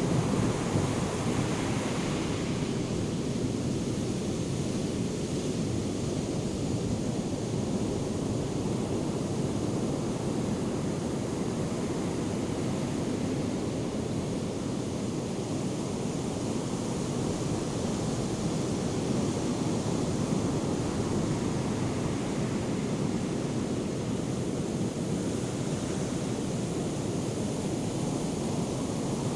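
Heavy ocean surf from a hurricane swell, a continuous low rush of breaking waves. It is brighter and louder in the first couple of seconds as a wave crashes, then settles into a steady roar of whitewater.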